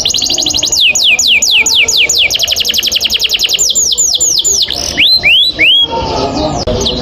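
Domestic canary singing: quick high whistled notes sweeping downward, running into a very fast rolling trill, then a few rising notes about five seconds in.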